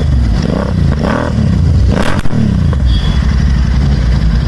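Royal Enfield 650 parallel-twin engine running through a Red Rooster aftermarket exhaust. It idles with a deep, steady rumble and is blipped twice, the revs rising and falling each time, with a sharp crack from the exhaust during the second blip.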